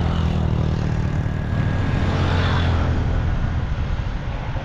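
Motor vehicle engine running with road and wind noise; its low hum weakens after about three seconds.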